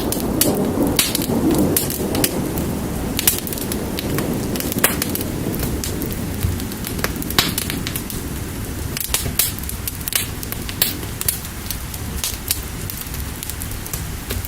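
Wood fire crackling with sharp, irregular pops over a steady hiss of rain, and a low thunder-like rumble that is heaviest at the start and eases off.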